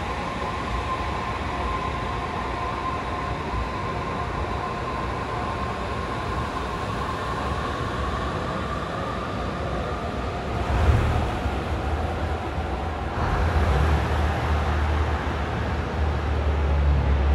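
Electric train at a station platform: a steady whine fades over the first several seconds. About eleven seconds in there is a sudden louder knock, then a low rumble that builds toward the end as the train moves.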